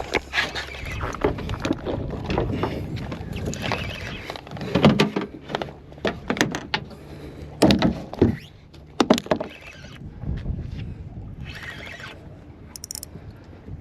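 Wind buffeting the microphone over water sloshing against a small boat, with several sharp thumps, the loudest about five seconds in.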